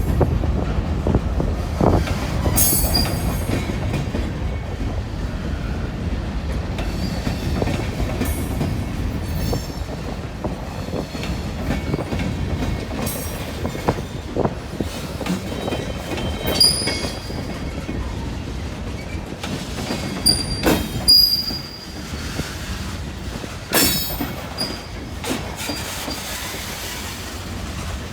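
Freight train cars rolling past: a steady rumble of steel wheels on rail with irregular clacks and knocks, and brief high-pitched wheel squeals now and then.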